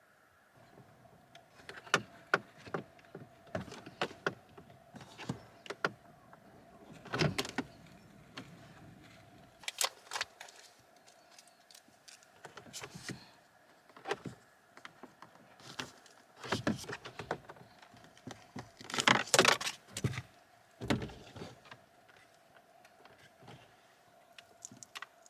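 Irregular clicks, knocks and scrapes of plastic dashboard trim and tools being handled and worked loose inside a car, over a faint steady hum.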